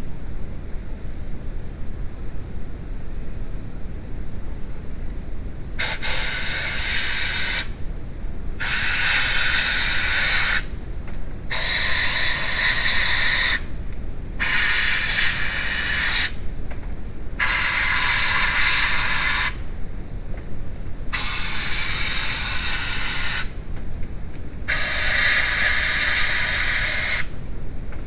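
Repeated hissing bursts of pressurized spray, about eight of them, each lasting around two seconds with short pauses between, starting about six seconds in over a low steady rumble.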